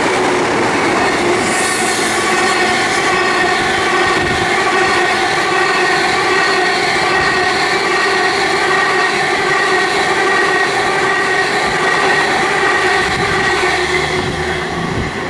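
A train running through the station past the platform: a steady whine of several tones over rail and wheel noise.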